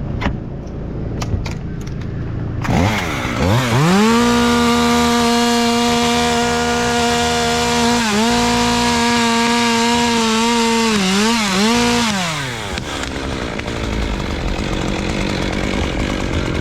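Two-stroke chainsaw revving up steeply about three seconds in and held at high revs for about eight seconds while cutting through a tree limb, dipping briefly a few times under load, then winding down near the end.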